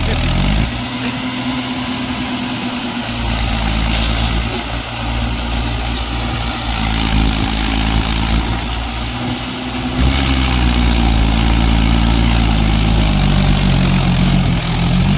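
Mahindra tractor's diesel engine running, its pitch rising and shifting as the revs change, getting louder about ten seconds in.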